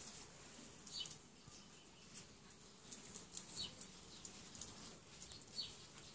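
Faint chirps of small birds, a few short calls spread through the quiet, with soft brief rustles in between.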